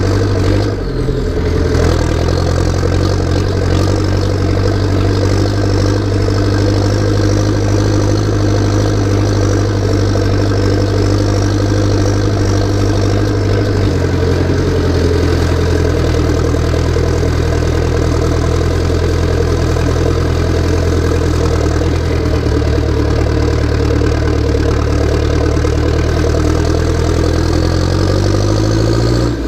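Massey Ferguson tractor's diesel engine running steadily. Its note steps down about a second in, shifts again about halfway through, and sweeps up and down near the end.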